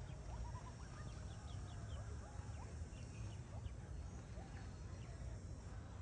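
Birds giving many short, scattered chirps over a steady low rumble.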